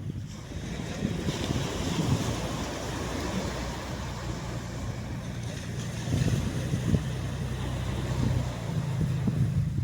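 Surf washing onto a sandy shore, a swell of breaking wash about a second in and another around six seconds, with wind rumbling on the microphone.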